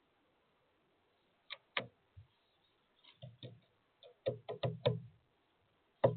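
Woodpecker pecking at sunflower seeds on a feeder: a string of sharp, irregular knocks starting about a second and a half in, some single and some in quick runs, several with a dull thud under them.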